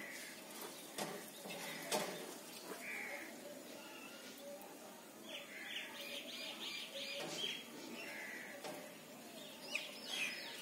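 Birds chirping: short chirps every few seconds and a quick run of higher notes about five seconds in, with a few short clicks among them.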